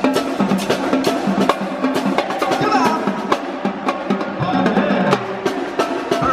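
Drum-driven percussion music: fast, dense drum and snare hits with sharp clicking strokes over a pitched backing.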